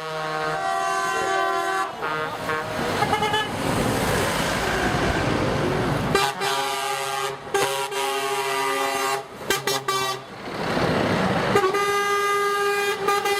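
Trucks in a convoy sounding their horns one after another: long held blasts of different pitches. Between the blasts comes the noise of passing truck engines.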